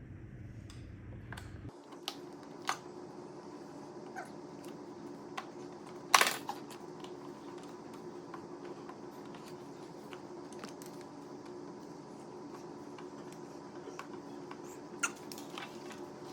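Scattered clicks and taps of plastic parts being handled on a robot vacuum, the loudest about six seconds in, over a steady hum.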